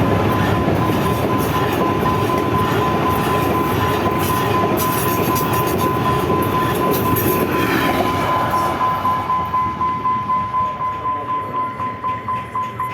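A train passing close by: a steady rumble of wheels on track that turns, in the last few seconds, into an even clatter of wheels over rail joints, a few beats a second. A steady high tone sounds throughout.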